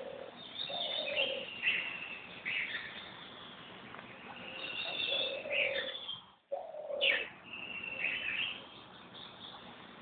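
Several birds calling: repeated high chirps and short falling notes over lower repeated notes, with the sound cutting out briefly about six and a half seconds in.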